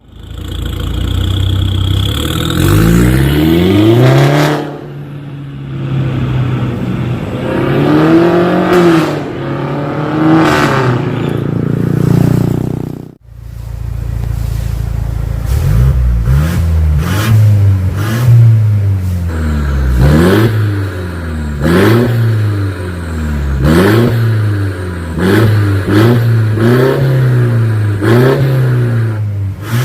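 Mercedes-Benz C300 W205's turbocharged four-cylinder engine free-revving through an aftermarket stainless full-system exhaust with a valvetronic cutout valve. First come a few longer revs, then a run of short, quick throttle blips about once a second, with a brief break about halfway.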